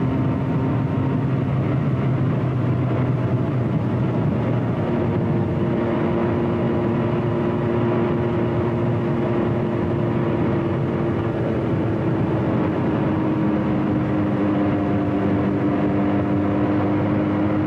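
Motorcycle engine running steadily under way, its pitch rising about five seconds in and dropping again near thirteen seconds as the rider changes speed.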